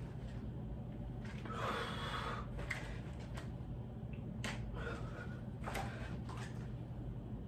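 A man breathing hard through a set of dumbbell curls, with a string of short, sharp breaths spread through the set, over a steady low hum.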